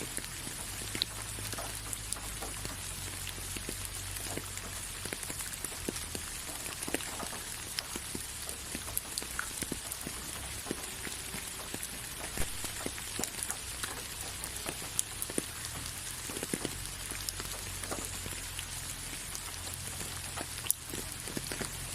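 Steady rain falling, with a continuous hiss and many individual drops ticking and pattering on a surface, over a low rumble.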